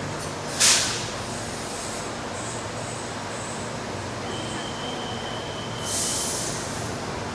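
Rome ATAC metro train running, with a steady rumble, two short hissing bursts about five seconds apart (the first the loudest) and a thin, steady high tone for about a second and a half between them.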